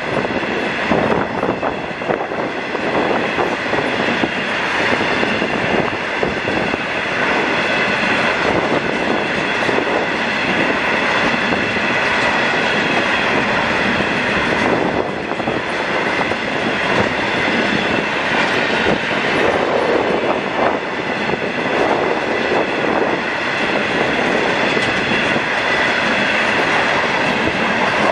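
A long freight train of railroad cars rolling past, with a steady rumble and clatter of wheels on the rails and a steady high-pitched ringing from the wheels over it.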